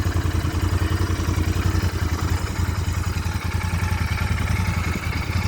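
Royal Enfield Interceptor 650's parallel-twin engine idling steadily, a low even pulsing exhaust note.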